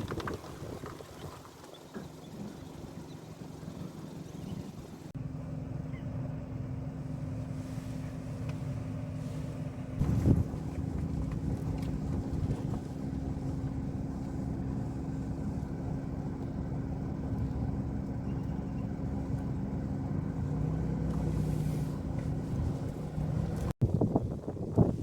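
A motor running steadily with an even low hum, starting about five seconds in, with a short louder noise about ten seconds in.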